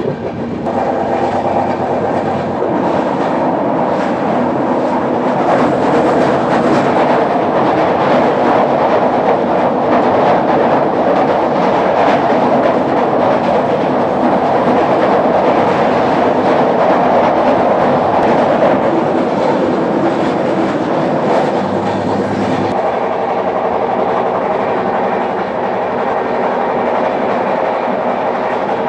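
Express passenger train running at speed, heard from an open coach door: a loud, steady rumble of wheels on rail with rapid clickety-clack over the joints. The noise swells a little in the middle and changes abruptly about three-quarters of the way through.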